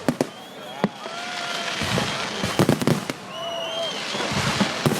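Bangers (firecrackers) going off amid a crowd: a few sharp bangs early on, a rapid cluster of bangs about halfway through and another near the end, over crowd chatter and shouts.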